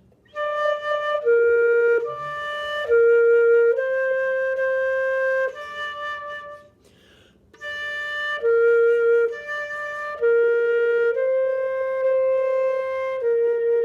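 A flute playing a slow beginner melody on three notes, D, B flat and C, in held notes: D and B flat alternate, then a long C. The phrase plays twice with a breath between.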